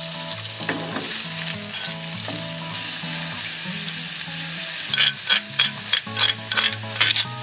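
Chopped beef and chili paste sizzling as they drop into hot oil in a frying pan. From about five seconds in, a spoon scrapes and taps against a stone mortar several times a second.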